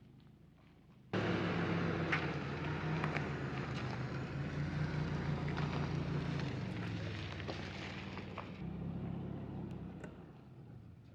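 Third-generation Toyota 4Runner driving over a rough, rocky trail: engine hum under loud road noise with scattered sharp knocks from tyres on loose rock. It cuts in suddenly about a second in and eases off near the end.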